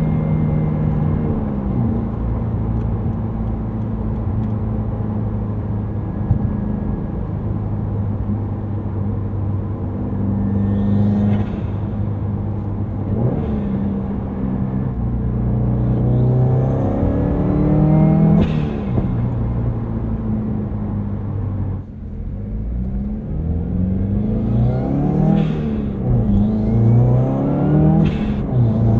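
Turbocharged Subaru WRX's FA20 flat-four, with an Invidia R400 cat-back exhaust, under acceleration: engine pitch climbs and falls back several times as it pulls and shifts. Brief hissing bursts come at several of the peaks.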